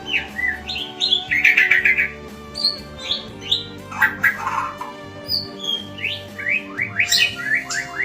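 White-rumped shama singing a varied, fast song of clear whistles, sliding notes and rapid trills, over a bed of steady background music.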